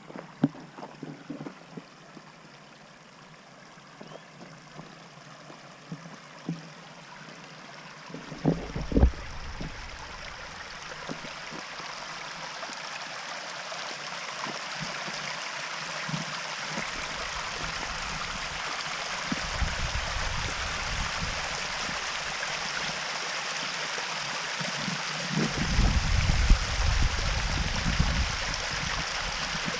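Running water of a creek and waterfall, a steady rush that grows louder and louder. Wind buffets the microphone about nine seconds in, around twenty seconds and again near the end.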